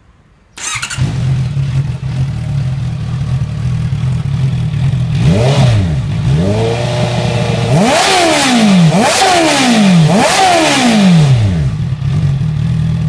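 Big motorcycle with an IXIL full-system exhaust, its baffle fitted, starting up about half a second in and idling. Near the middle it is revved with about five throttle blips that rise and fall in pitch, then settles back to idle.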